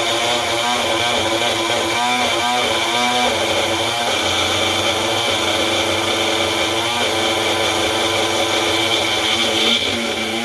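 Electric blender running at full speed, grinding soaked red lentils with very little water into a thick paste. Its pitch wobbles up and down for a couple of seconds early on, then runs steady.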